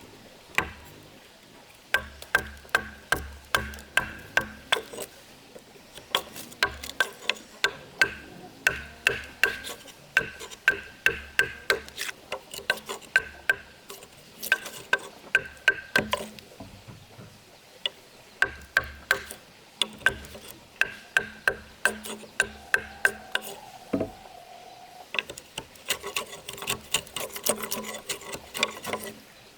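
Hand-tool blows on wood during timber building work: rapid sharp knocks, about three a second, each with a brief ring. They come in bursts of several seconds broken by short pauses.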